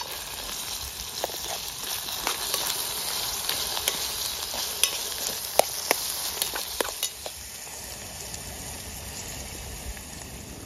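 Vegetables sizzling as they are stir-fried in a Trangia aluminium pan, with a metal spoon clicking and scraping against the pan. The clicks stop about seven seconds in, leaving the steady sizzle.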